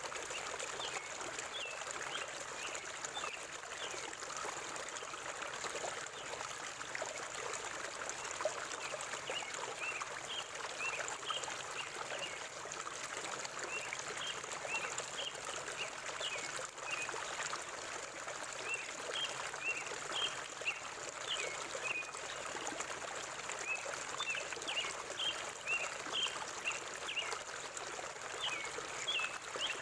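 A forest river's water running steadily, with small birds chirping in short runs of quick notes throughout, more of them in the second half.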